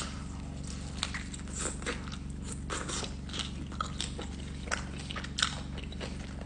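A person chewing a mouthful of a hot fried chicken slider with coleslaw: irregular short crunches of the fried breading as he chews.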